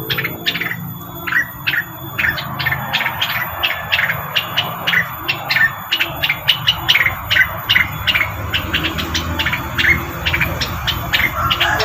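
Rengganis bird lure call: a long, uneven run of short, sharp chip notes, several a second, over a low steady hum.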